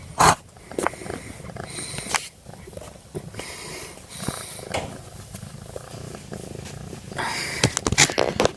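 Domestic cat purring steadily, close up. A few short rustles or knocks from handling, the loudest just after the start and more near the end.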